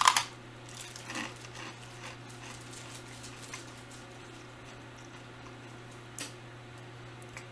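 A person biting into a piece of Japanese candy, a short sharp bite at the very start, then chewing it quietly with faint mouth clicks and one brief louder mouth noise about six seconds in.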